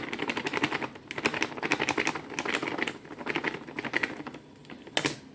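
Dry poundo yam flour poured from its packet into a bowl: a dense, rapid crackle of fine ticks that eases off about four and a half seconds in, followed by a single sharp click.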